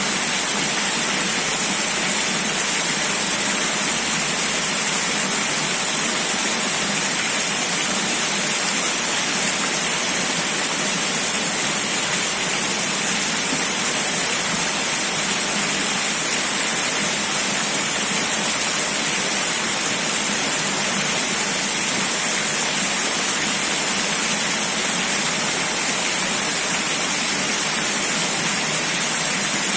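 Steady rushing noise of wind and water, like a waterfall or heavy rain, with a strong high hiss and no change in level.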